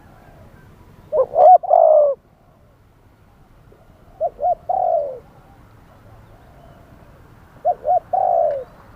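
Spotted dove cooing three times, a few seconds apart: each phrase is two short coos followed by a longer falling coo.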